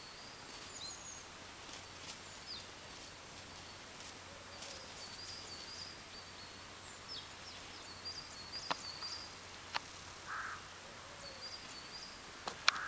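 Quiet winter outdoor ambience with many faint, short, high chirps of small birds calling in the distance. A few sharp clicks and soft rustles come in the second half.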